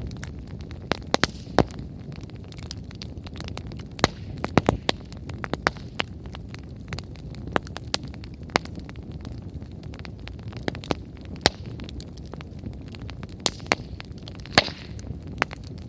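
Wood fire burning, with irregular sharp crackles and pops, about one or two a second, over a steady low rush of flames. Near the end one louder pop is followed by a brief hiss.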